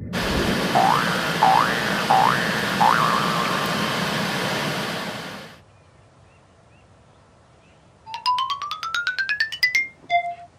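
Edited-in music and sound effects: a loud hissing burst carrying four quick rising chirps for about five and a half seconds, then after a short lull a fast rising run of short notes and one brief tone.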